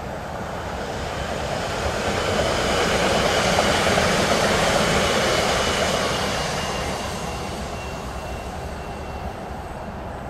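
A red-and-white ÖBB electric multiple-unit passenger train passes at speed. The rolling noise of its wheels on the rails swells from about two seconds in, is loudest for a few seconds, then fades, with a faint high whine that drops slightly in pitch as it goes.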